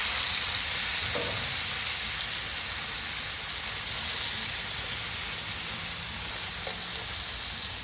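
Freshly smashed beef burger patties sizzling steadily on a hot cooking surface.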